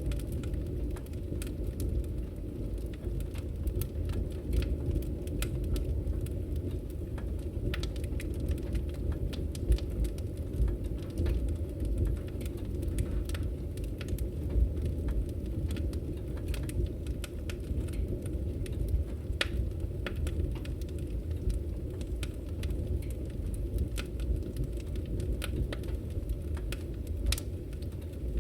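Wood fire crackling in a fireplace: irregular sharp pops and snaps of burning firewood over a steady low rumble.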